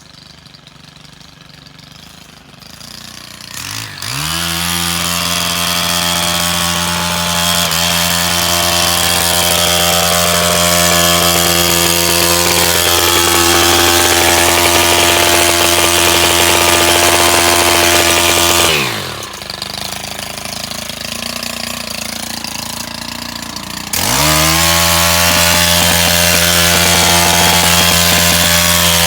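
Small petrol engine of a handheld power tool revving up about four seconds in and held at a steady high speed. It drops back to idle about two thirds of the way through, then revs up again for the last few seconds.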